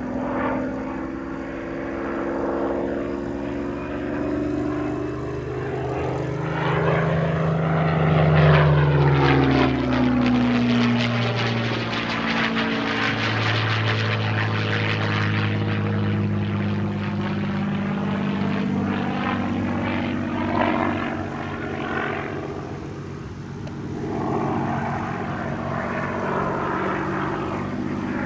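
Supermarine Spitfire Mk VIII's Rolls-Royce Merlin V12 engine running loud through a display pass, its note dropping in pitch as the fighter sweeps past about nine seconds in, then holding steady as it flies on.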